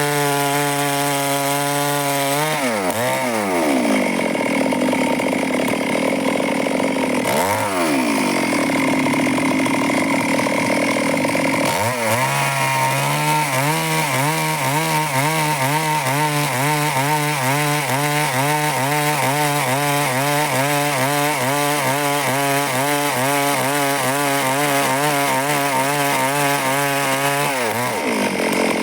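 Stihl chainsaw cutting wood at full throttle, then easing off about two and a half seconds in. It revs up briefly once around seven seconds, then runs under steady load again from about twelve seconds until it eases off near the end.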